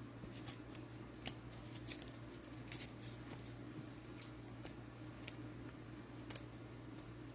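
Trading card packs and cards being handled: scattered small, sharp clicks and crinkles over a steady low hum.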